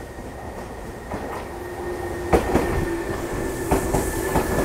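Tokyu 8500-series electric commuter train running in past the platform: wheels clacking over the rail joints, growing louder as it nears, with a steady tone joining about halfway through.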